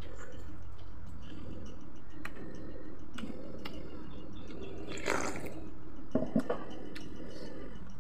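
Wet eating sounds of someone chewing fried chicken, with a short rush about five seconds in and a few sharp clicks soon after.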